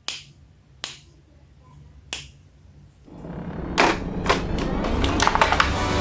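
Three sharp clicks of hard plastic about a second apart, then handling noise with a quick run of further clicks as toy action figures are handled.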